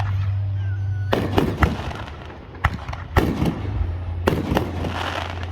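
Fireworks show: several sharp bangs of aerial shells bursting, roughly a second apart, ending in a longer crackling burst near the end.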